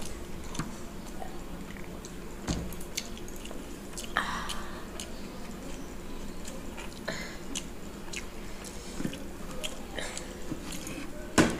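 Quiet chewing and mouth sounds of people eating, with scattered small clicks and smacks, and a sharper knock near the end.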